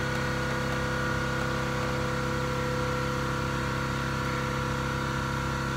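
A steady machine hum holding several constant tones, unchanging in pitch and level.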